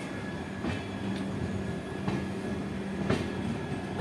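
Passenger train running on the rails, heard from an open coach doorway: a steady rumble with a hum and a few sharp wheel clicks over rail joints about a second apart.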